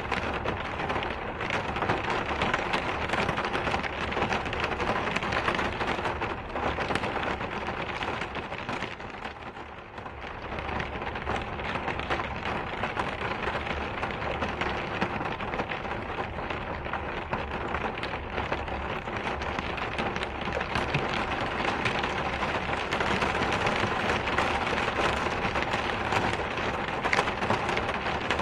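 Steady rain: a dense, even hiss of raindrops hitting a surface, easing briefly about ten seconds in before picking up again.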